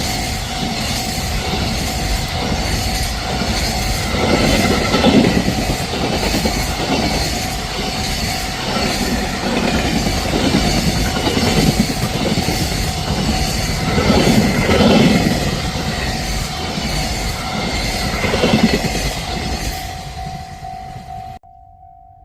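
Train passing at speed over a level crossing, wheels clattering over rail joints in recurring heavy bursts. A level-crossing alarm sounds as a steady tone underneath. The train noise cuts off suddenly near the end, leaving only the crossing alarm.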